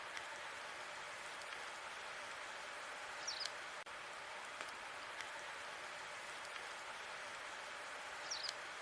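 Wood fire burning in a fireplace: a steady hiss with scattered small crackles and pops, and a short high squeal from the logs about three seconds in and again near the end.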